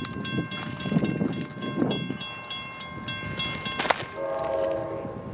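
NJ Transit commuter train, led by an EMD GP40PH-2B diesel locomotive, approaching, with a short horn blast about four seconds in.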